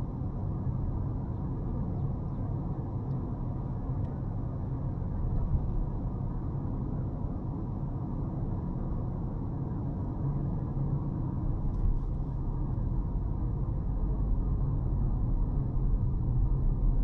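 Car driving along a road: a steady low rumble of engine and tyre noise that grows a little louder near the end.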